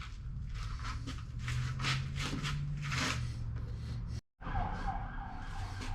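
Metal being machined: a machine tool's motor hum under irregular scraping from the cutter in the steel. After a brief dropout about four seconds in, a steady, slightly wavering high whine from the cut.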